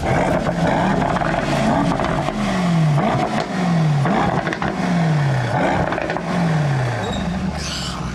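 Mercedes-AMG E63 S's 4.0-litre twin-turbo V8 revved in several throttle blips while standing still, each rev dying away before the next. It is heard from behind the exhaust.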